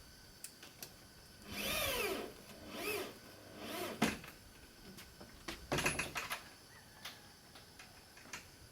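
Power drill run in short bursts, its whine rising and falling in pitch with each squeeze of the trigger, followed by a sharp click and a final short burst.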